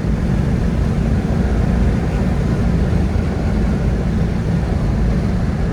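1971 Chevrolet El Camino Super Sport's 350 small-block V8 and tyres on the move: a steady, loud low rumble of engine and road noise while driving.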